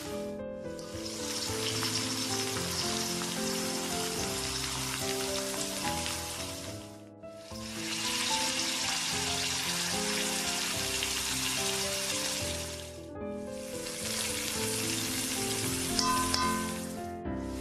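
Oil sizzling steadily in a wok as chopped shallots, garlic and chilies fry, with instrumental background music underneath. The sizzle cuts out briefly about four times.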